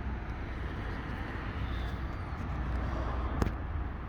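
Steady low background rumble with a single sharp click about three and a half seconds in.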